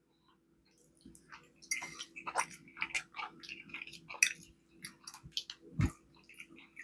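Close-up chewing: wet mouth clicks and smacks in an irregular run that starts about a second and a half in, over a faint steady hum.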